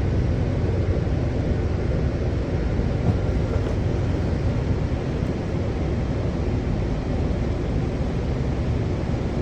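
Washington Metro railcar running along the track, heard from inside the car as a steady rumble and hiss.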